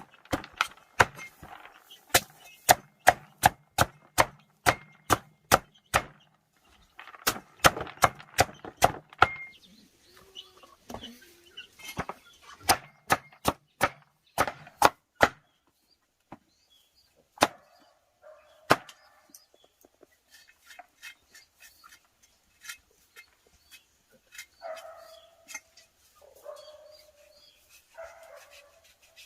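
Repeated chopping strikes with a blade, about two a second, stopping about halfway through. Then come two single strikes and, near the end, a few faint short animal calls.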